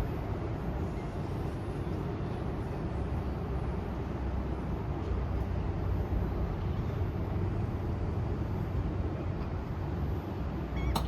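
Passenger train running with a steady low rumble and noise, and a short sharp click near the end.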